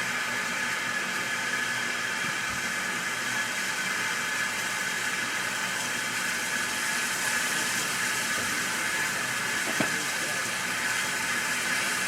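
Steady hiss of escaping steam from a steam locomotive, with no exhaust beats, and a small click about ten seconds in.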